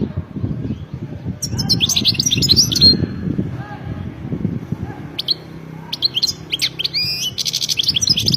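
Caged European goldfinch singing: two bursts of rapid twittering song, the first about a second and a half in and the second from about five seconds, over a continuous low background noise.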